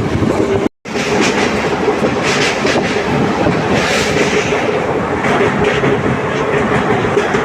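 Moving passenger train: steady running rumble with a constant hum and the clickety-clack of wheels over rail joints. The sound cuts out completely for a split second about a second in.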